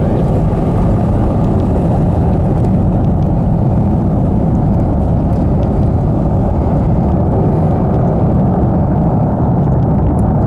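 Falcon 9 rocket engines during ascent: a loud, steady low rumble.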